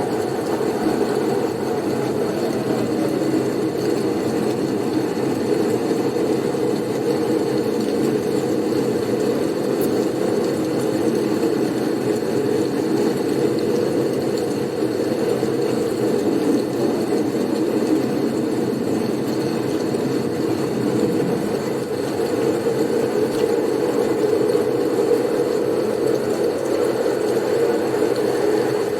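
Blizzard wind blowing steadily: a dense, even rushing noise sitting low in pitch, with no distinct gusts or breaks.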